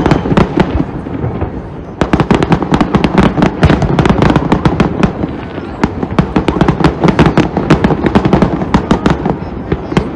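Fireworks going off in a rapid, dense crackle of many sharp pops and bangs, thinning briefly near the start and again about halfway through.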